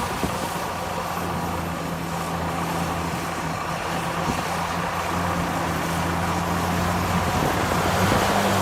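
Heavy diesel engine of a construction machine running steadily with a constant low hum, growing a little louder near the end.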